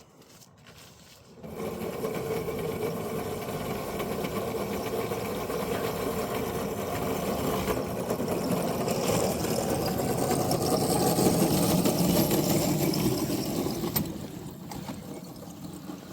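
Damaged 500 W electric traction motor of a ride-on miniature locomotive running at full throttle under a heavy load, a steady whirring drone that starts about a second and a half in, grows louder, and drops off near the end. The locomotive is straining on a steep grade and barely moving.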